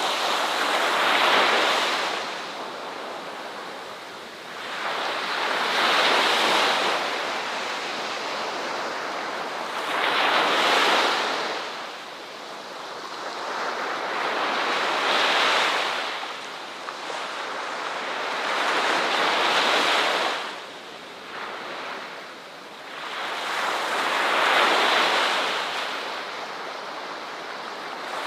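Ocean waves breaking on a shore: the surf swells and washes back about every four to five seconds, six surges in all.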